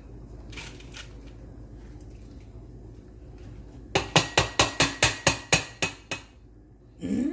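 A quick run of about ten sharp clicks, roughly five a second, from kitchen utensils or equipment being handled. A short rising voice-like sound follows near the end.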